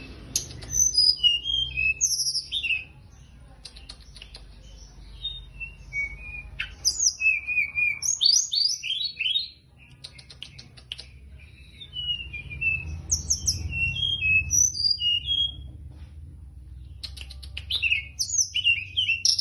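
Teledekan gunung songbird singing in bouts of rapid, varied chirping phrases with short pauses between them, over a steady low background hum.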